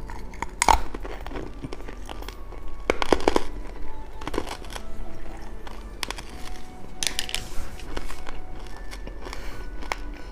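Crinkling and crackling of plastic candy wrappers, with scattered sharp clicks and a few short bursts of rustling, over quiet background music.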